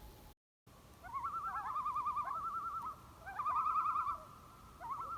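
Bird calls: a fast, wavering trill given in three bouts, with fainter looping notes beneath it. A brief dropout comes just before the first bout.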